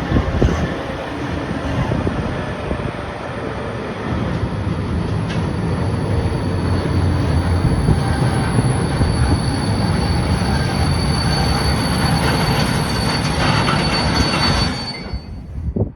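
Engineering freight train passing close by, its wagons rolling and rattling over the track with a thin, steady high-pitched wheel squeal; the sound stops abruptly near the end.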